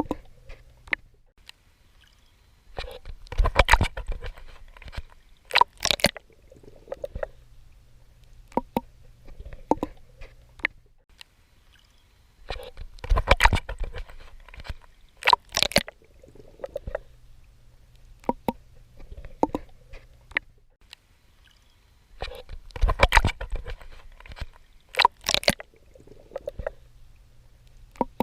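Water sloshing and splashing from a swimmer's strokes in the sea, close to the microphone. Busy clusters of splashing come about every ten seconds, with scattered clicks and bubbly sloshes between them over a low steady hum.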